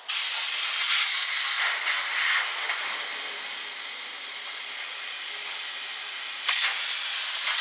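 Air being blown through a car's fuel line, front to back, to check it for a blockage: a steady, loud hiss that starts suddenly, eases off a little midway, then comes back stronger about six and a half seconds in.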